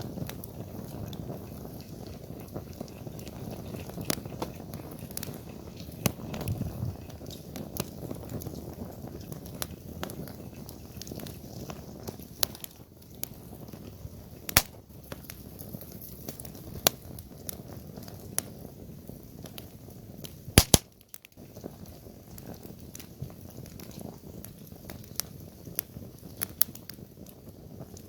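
Wood campfire burning with a low steady rumble and frequent sharp crackles and pops, the loudest a quick double pop about two-thirds of the way through.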